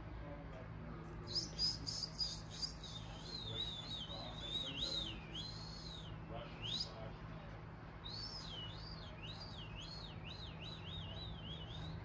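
A songbird singing a fast warbling song of high notes that quickly rise and fall. It starts about a second in, breaks off briefly around seven seconds, then goes on again.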